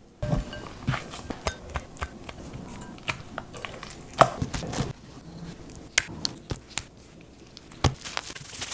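Kitchen knife tapping and cutting on a cutting board in irregular strokes, with occasional clatter of utensils or dishes.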